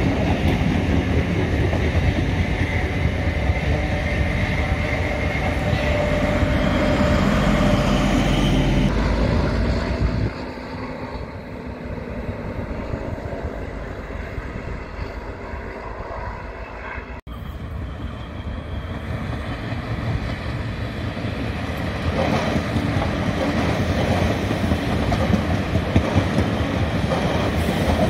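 Diesel multiple-unit passenger trains passing close by: engine rumble and steel wheels running over the rails. The sound drops suddenly about ten seconds in to a quieter, distant train. It breaks off about 17 seconds in, and a second railcar set grows louder as it passes near the end.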